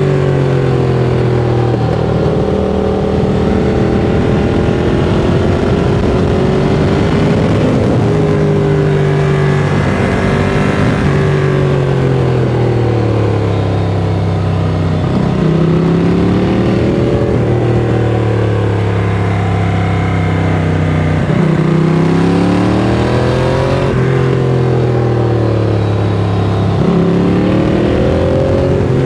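Ducati Monster 695's air-cooled L-twin engine through a Mivv X-Cone exhaust, pulling up through the revs and easing off over and over. Its pitch climbs and then drops sharply at gear changes several times, over a steady rush of wind noise.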